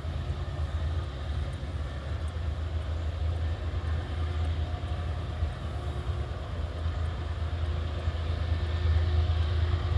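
Diesel locomotive engine running with a steady low rumble that grows gradually louder toward the end.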